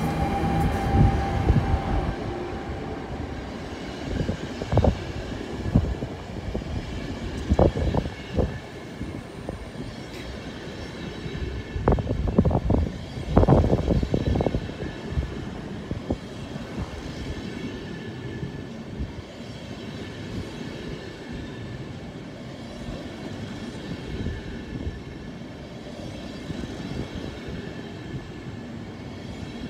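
An NS Siemens Vectron electric locomotive hauling Intercity Berlin coaches through the station, a steady rail rumble with a whine that fades in the first couple of seconds. Irregular loud clunks from the passing train come between about four and fifteen seconds in, then it settles to a quieter, steady rumble.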